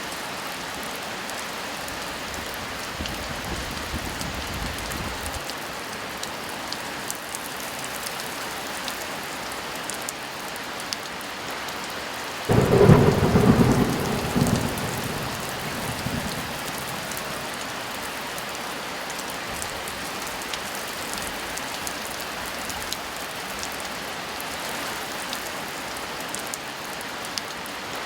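Heavy rain falling steadily, with a sudden clap of thunder about halfway through that rumbles on for a few seconds before fading back into the rain, and another thunderclap breaking in at the very end.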